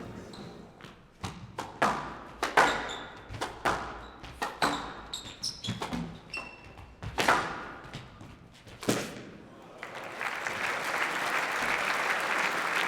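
Squash ball struck by racquets and hitting the court walls during a rally, with sharp hits about once a second and a few short squeaks between them. From about ten seconds in, the rally ends and the audience applauds.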